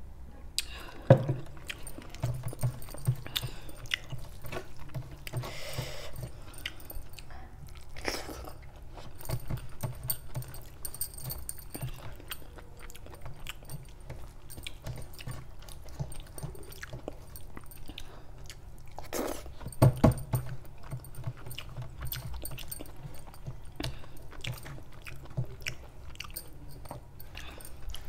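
A person chewing and biting a mouthful of rice and chicken kofta curry eaten by hand, with many small mouth clicks throughout. Two louder knocks stand out, one about a second in and one around twenty seconds in.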